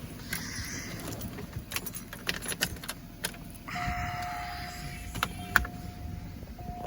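Car keys jangling with scattered clicks and rustling while the engine is off, and a steady electronic tone coming in about four seconds in.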